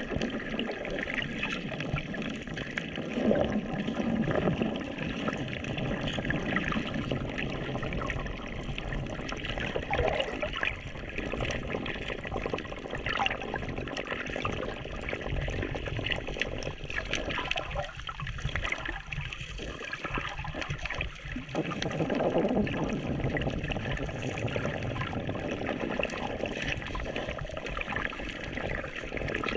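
Sea water sloshing and gurgling close against a camera filming in shallow water.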